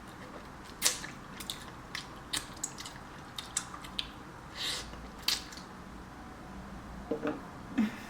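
A person eating herbal black chicken soup close to the microphone: scattered wet clicks and smacks of chewing, with a brief slurp a little past halfway.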